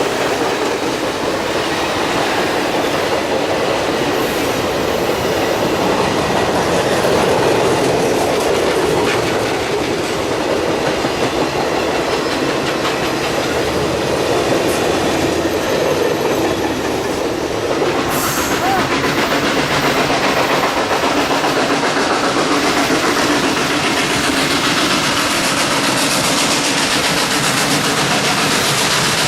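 Passenger train cars rolling past, wheels clacking over the rail joints.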